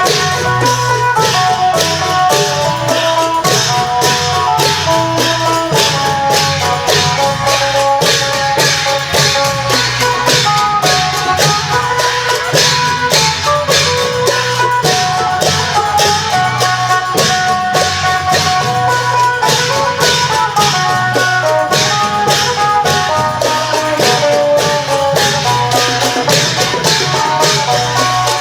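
Isan klong yao long-drum band playing live: a phin, the plucked Isan lute, picks a quick melody over a steady, even beat of long drums and cymbals.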